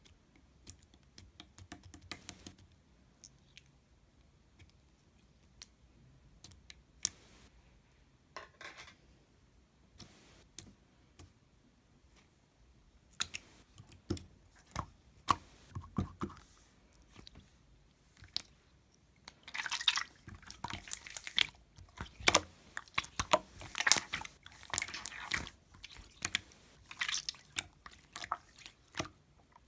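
Slime being squished and worked by hand: scattered sticky clicks and pops, sparse at first, then coming thick and fast for the last third.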